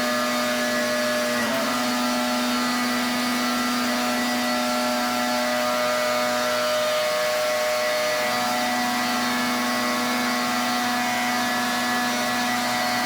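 Pressure washer running steadily: a constant humming tone from its motor and pump under the hiss of the high-pressure spray.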